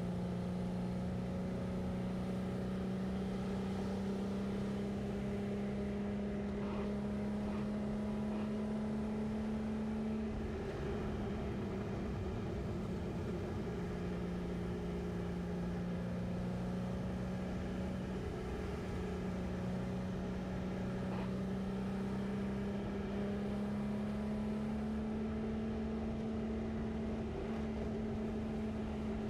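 A 1965 Chevrolet C10 pickup's inline-six engine running under way, heard from inside the cab over a steady low road rumble. Its pitch climbs slowly, dips about a third of the way through, then climbs again.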